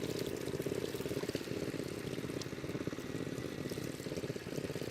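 A small engine running steadily with a fast, even chugging pulse, with water pouring.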